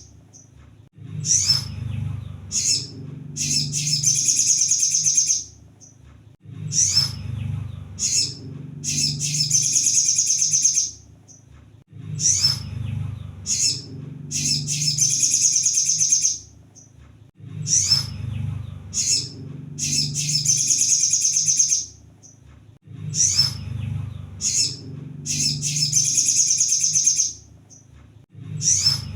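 Sunbird song repeated in a loop. About every five and a half seconds comes a rapid, high twittering phrase of about two seconds, then a few short separate chirps. A low steady hum runs underneath.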